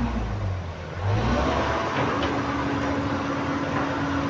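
Komatsu PC130 excavator's diesel engine running with a steady hum. It drops briefly, then picks up again about a second in.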